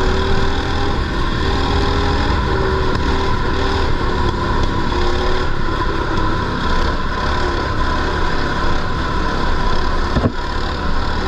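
Mini bike's small engine running under throttle on a dirt track, its pitch shifting up and down as it is ridden. A brief knock comes about ten seconds in.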